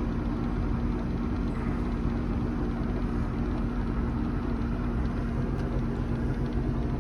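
26-foot Rendezvous boat's engine idling steadily, an even hum with a constant pitch.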